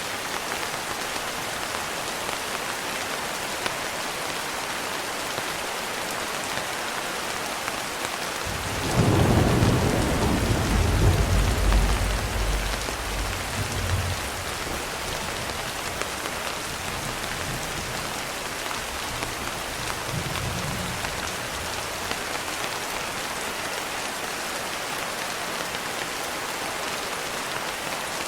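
Steady rain falling, with a roll of thunder about a third of the way in that rumbles for several seconds and fades, and a fainter rumble of thunder later.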